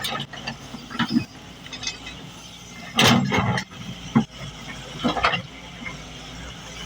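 Machinery clanking: several sharp metallic knocks and clicks, about a second apart, over a low steady engine hum.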